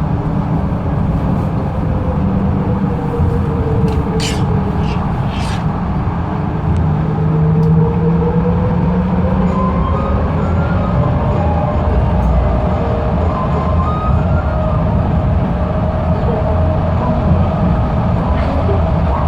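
Busan Subway Line 4 rubber-tyred light-metro train running between stations: a steady low rumble with a motor whine that glides down in pitch and then back up. A few short hisses come about four to five seconds in.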